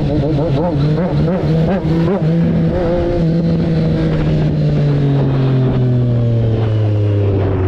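Motorcycle engine running at speed. Its pitch wavers up and down for the first two seconds, then holds and slowly falls as the bike eases off.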